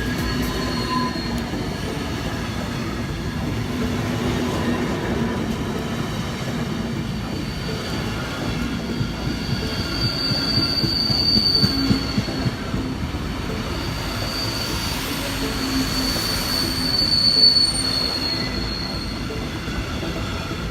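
A train rolling past with a steady rumble of wheels on rails. A thin, high wheel squeal rises out of it about halfway through and again near the end.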